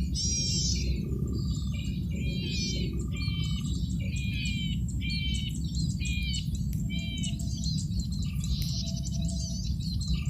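Male red-headed cisticola singing hard: a string of short, buzzy, scratchy phrases repeated roughly once a second, over a steady low background rumble.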